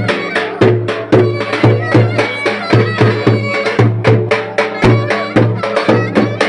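Loud live Turkish folk dance music: a steady, heavy beat of about three strokes a second with a melody playing over it.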